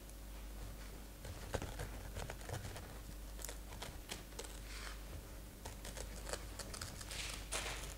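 Knife cutting and scraping through pineapple flesh inside the shell: a run of small irregular clicks with a few short scrapes.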